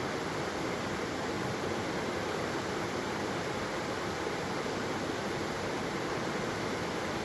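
Waterfall's flowing water rushing steadily and evenly, without any change.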